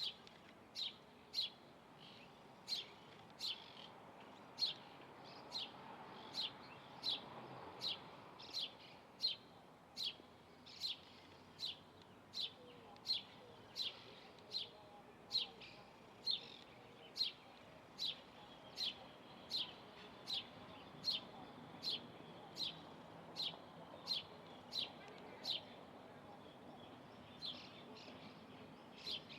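A bird chirping over and over: short, sharp, high chirps repeated at a steady pace, about three every two seconds, with a brief pause near the end.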